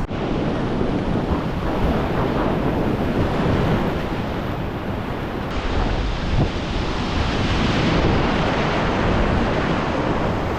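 Continuous rush of whitewater river current, with wind buffeting the microphone; the rush changes abruptly about five seconds in.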